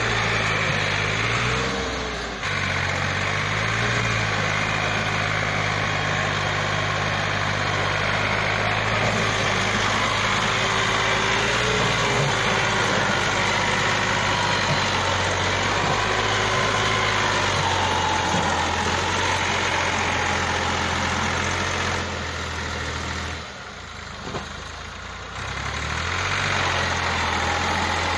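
Massey Ferguson tractor's diesel engine running under heavy load, pulling a heavily loaded trolley up a difficult track. The engine note shifts pitch a few times, drops away noticeably about 22 seconds in, then comes back strongly near the end.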